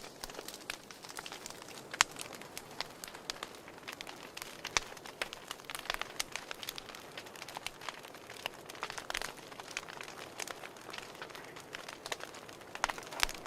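Campfire with burning wood crackling: irregular sharp pops and snaps over a soft hiss. The loudest snap comes about two seconds in, and a cluster of pops comes near the end.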